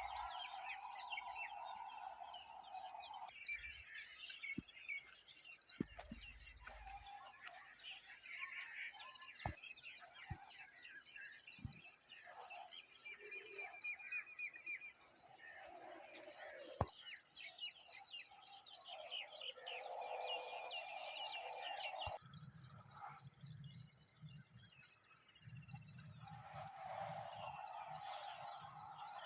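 Faint outdoor ambience of many small birds chirping and twittering together, with a few scattered sharp clicks and an abrupt change in the background about 22 seconds in.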